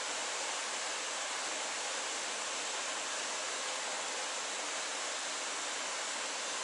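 Steady, even hiss with no distinct clicks or knocks.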